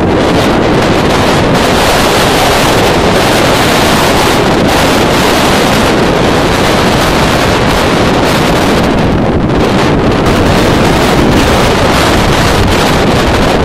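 Severe storm gusts blowing across the microphone: a loud, steady rush of wind noise that never lets up.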